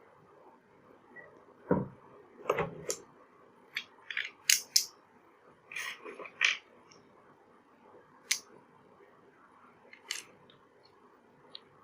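Metal engine parts being handled and set in place while a Honda CD 70 engine is assembled: scattered irregular clinks and taps, with a couple of duller knocks in the first few seconds.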